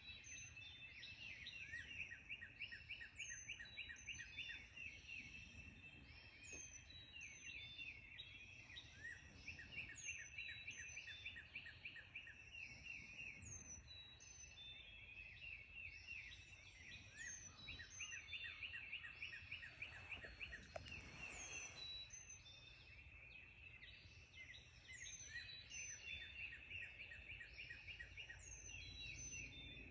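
Morning chorus of several songbirds: rapid repeated trills and chirps, with a short high downslurred note coming every second or two, over a faint low background rumble.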